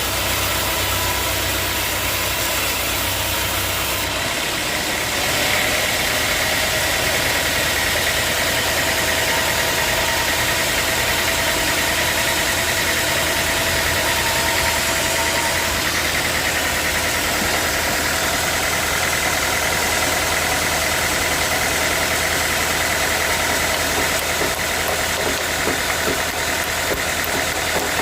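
A band sawmill running steadily under an engine's drone. About five seconds in the sound shifts and a high steady whine sets in.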